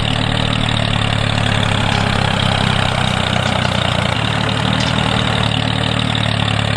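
Tractor engine idling steadily with an even, low, pitched rumble.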